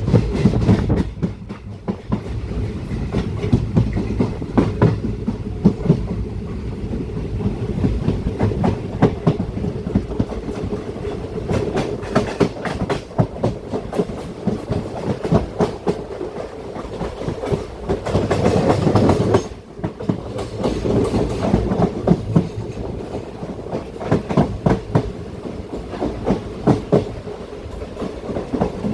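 Wheels of a moving express passenger coach clattering over the rail joints with a steady rumble, heard from the side of the coach. There are many sharp clicks throughout, and the sound swells louder for a second or two about two-thirds of the way through, then drops off sharply.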